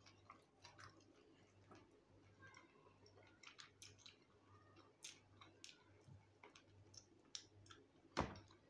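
Faint close-up chewing and lip smacking of a person eating fried blue whiting: scattered soft clicks and smacks over a low steady hum, with one sharper click near the end.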